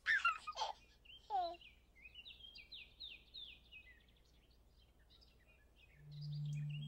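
Birdsong: a few falling whistled calls, then a run of quick, high chirps. Near the end a low, steady musical tone begins.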